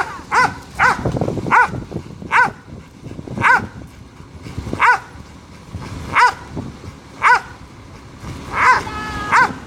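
Dog barking repeatedly: about a dozen short, high-pitched barks at uneven intervals, some coming in quick pairs near the end.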